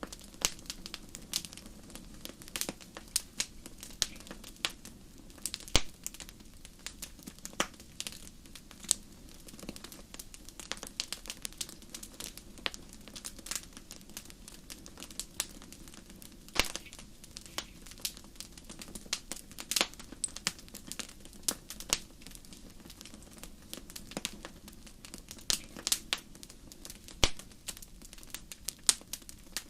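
Wood fire burning, with irregular sharp crackles and pops from the burning wood over a steady low rumble of the flames.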